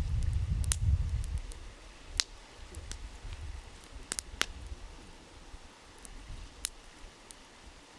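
Wood campfire crackling: scattered sharp pops of burning wood a second or two apart over a faint steady hiss, with a low rumble that dies away in the first second and a half.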